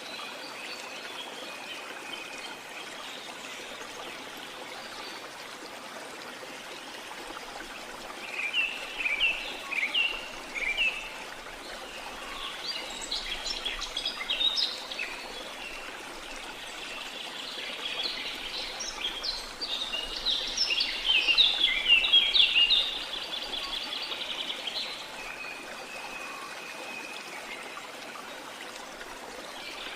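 Small songbirds chirping in several bursts of rapid twitters over a steady, even wash of sea water. The loudest chirping comes a little past the middle.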